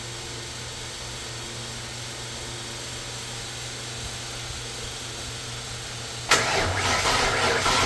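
Twin-turbo Ford 351 Windsor V8 being started for the first time after a rebuild: a steady low hum, then about six seconds in the engine suddenly cranks and fires, running rough and uneven.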